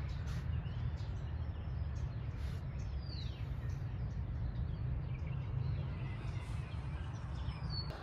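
Outdoor ambience: a steady low rumble with a few short bird chirps over it, one falling chirp about three seconds in and another near the end.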